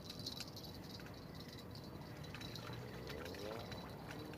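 Faint steady insect chirring, with a few small scattered clicks.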